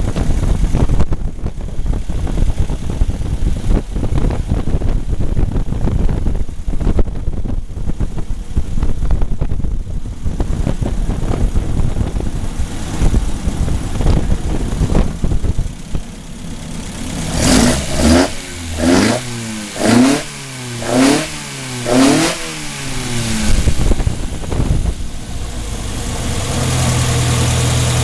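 1780cc Ford Crossflow four-cylinder race engine running on a dyno, first unevenly at low speed. It is then revved in five quick throttle blips about a second apart, each rising and falling in pitch, and near the end it settles into a steady, even speed.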